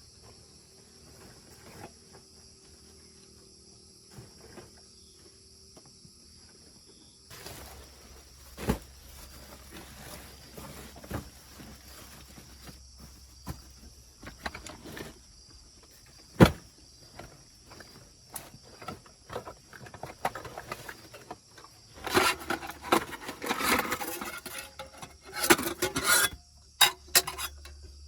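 Insects trilling steadily in high, even tones, with scattered sharp knocks and clatter of something being handled from about seven seconds in. A single loud knock comes about halfway through, and the clatter is busiest near the end.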